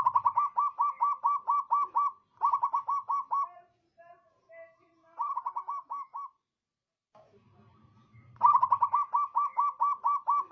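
Zebra dove (perkutut) singing: four phrases of quick, evenly spaced coos, the first and last phrases the longest, with short pauses between them.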